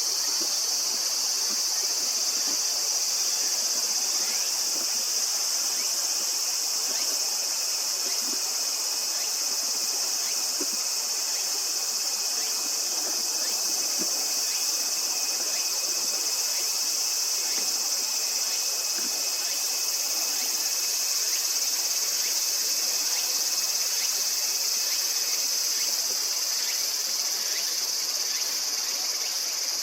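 Steady, high-pitched chorus of insects shrilling without a break, with a fainter lower steady tone that stops a few seconds before the end.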